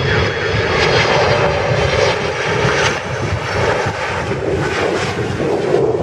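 Airliner's engines heard close by, a loud, steady rush of noise.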